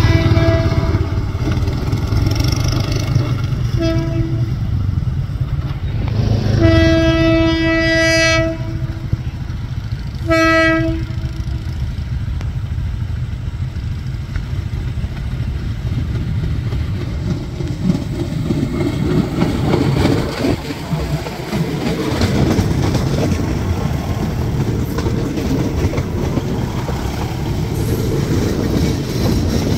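Train horn sounding four blasts on one steady pitch: two short, one long of about two seconds, then a short one. A train then runs past with a continuous rumble and wheels clacking over the rail joints.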